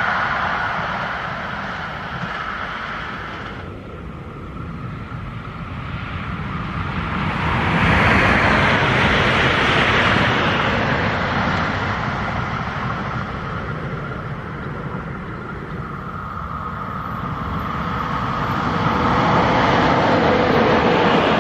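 A passenger train passing at speed on the main line: its noise swells to a peak about eight to ten seconds in and then fades. Near the end a second train, hauled by a locomotive, approaches and grows steadily louder. A rushing noise dies away during the first few seconds.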